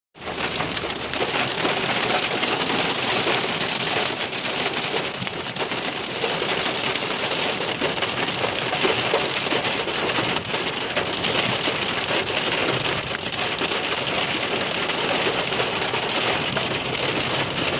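Extremely heavy rain mixed with hail pelting a moving car: a dense, steady hiss of countless tiny impacts.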